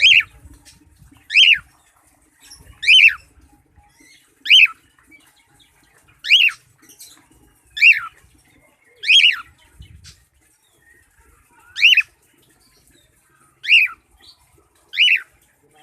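Cockatiel calling over and over: about ten short, loud, falling whistled calls, roughly one every second and a half.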